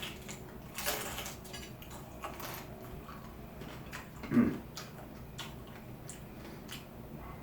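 Light clicks and taps of food containers and utensils being handled while a taco is assembled, with one louder, low, brief sound about four seconds in.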